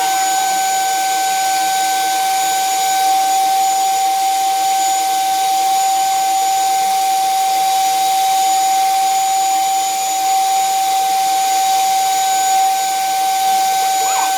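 High-speed handheld rotary multi-tool running at a steady high-pitched whine while cleaning up a drilled hole in sheet steel.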